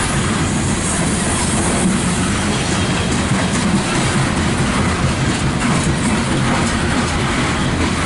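Loaded coal train's steel gondola cars rolling past close by: a steady rumble of wheels on rail, with the clack of wheels passing over the rail joints.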